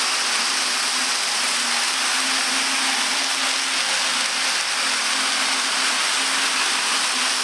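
Steady whirring hum of the electric drive motors under a magnetic figure-8 toy race track, which carry magnets that pull the cars around. The sound holds even throughout, a constant hiss over a low, slightly wavering hum.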